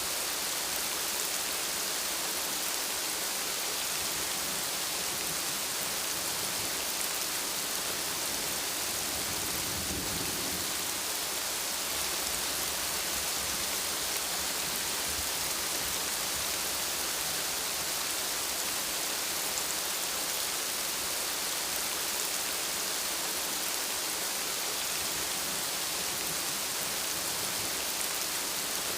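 Steady heavy rain, a dense even hiss of drops on surfaces. A brief low rumble of thunder swells about a third of the way through.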